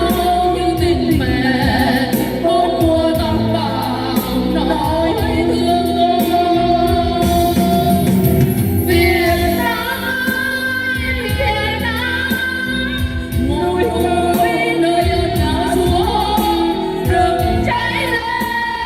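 Female voices singing a Vietnamese song with musical accompaniment, the sung notes held long.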